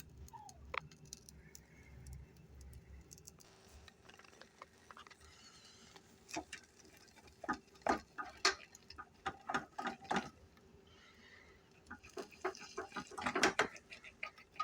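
Irregular light clicks and taps of utensils against a pan while roasted chicken is cut open to check it is cooked through, in small clusters about six seconds in and again near the end.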